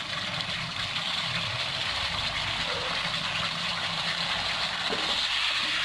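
Chicken karahi masala sizzling as it fries in the pan, a steady hiss with a low hum underneath.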